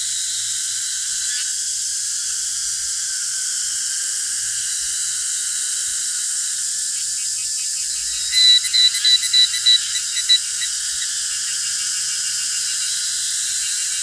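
Steady, high-pitched chorus of insects. About eight seconds in, a quick run of about eight loud, sharp chirps lasts roughly two seconds.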